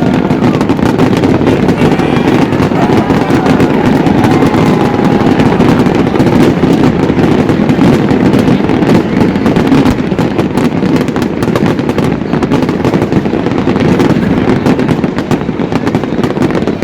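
Fireworks display: a loud, dense, continuous barrage of bangs and crackling.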